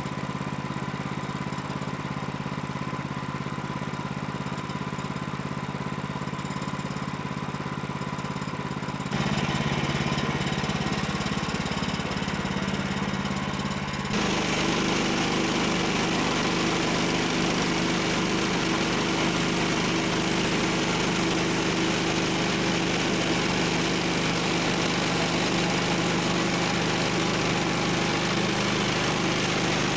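Small gasoline engine running steadily, its tone and loudness changing abruptly about 9 seconds in and again about 14 seconds in, running louder from then on.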